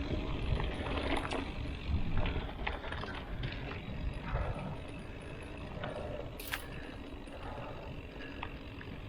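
Mountain bike being ridden: a steady low rumble of wind on the microphone and tyres, with the frame, chain and gear rattling and clicking throughout, and one sharper click about six and a half seconds in.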